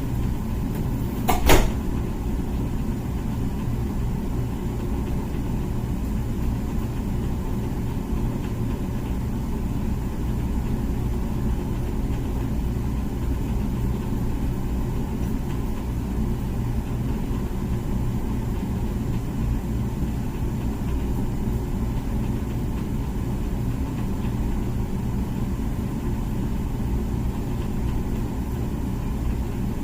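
Comfee dishwasher running its wash cycle: a steady low hum, with one sharp click about a second and a half in.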